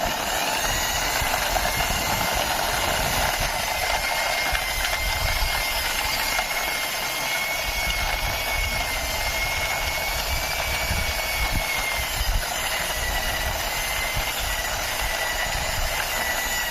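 Toy car being driven by hand, giving a steady mechanical whirring with a thin high whine that wavers slightly in pitch.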